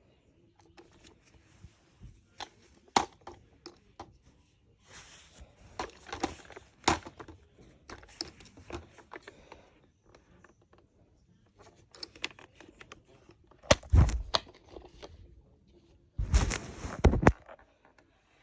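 Plastic toys being handled: irregular clicks and knocks with rustling, scraping noise between them, and two louder bursts of rattling near the end.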